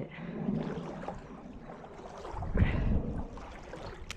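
Creek water running, with a louder low rush lasting about half a second, about two and a half seconds in.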